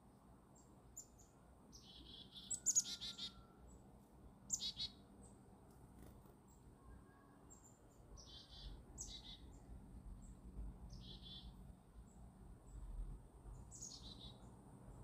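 Birds calling: a few short, separate high calls, some sweeping down in pitch and some buzzy, the loudest about three seconds in, over a faint low rumble.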